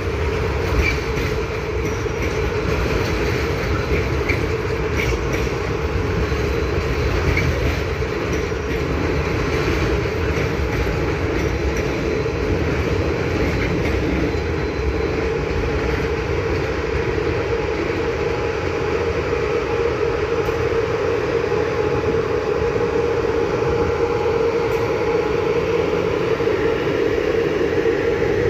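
A train rolling past: a steady, continuous rumble of wheels on the rails with a steady hum in it.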